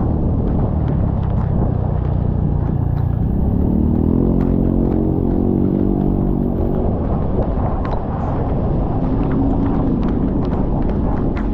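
Motorcycle ride in heavy rain: a deep, steady rumble of wind and road noise over the running engine, whose note rises and holds for a few seconds near the middle, with scattered sharp ticks throughout.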